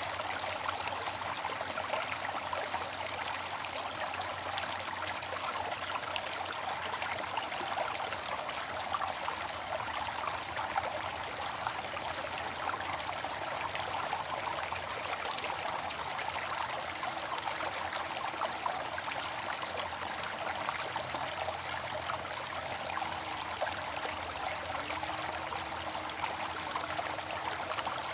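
Water fountain splashing and trickling steadily, an even continuous rush of falling water.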